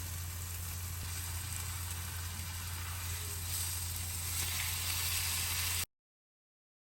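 Food sizzling in a frying pan, a steady hiss over a low hum, cutting off abruptly about six seconds in.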